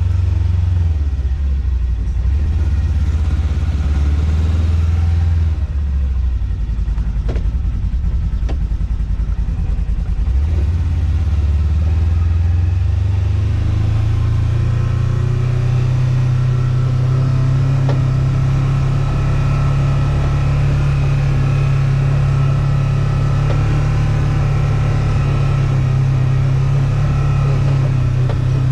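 Vehicle engine running steadily, its pitch rising about halfway through as it speeds up, with a couple of faint knocks in the first half.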